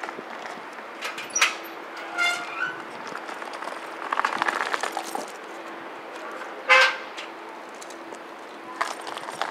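Short horn toots from a departing JR E531 series electric train, the loudest about two-thirds of the way through, over a steady low hum.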